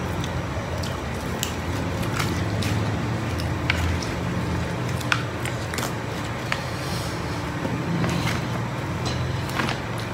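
Close-miked eating sounds: chewing, lip-smacking and sharp wet mouth clicks as food is eaten by hand, over a steady low rumble like traffic or an engine.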